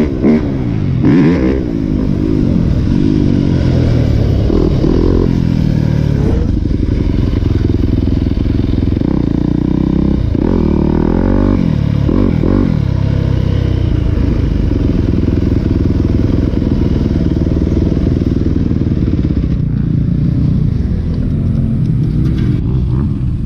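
Four-stroke dirt bike engine, a Yamaha YZ250F, running throughout. It revs up and down near the start and again about ten seconds in, and holds a steadier note in between and toward the end.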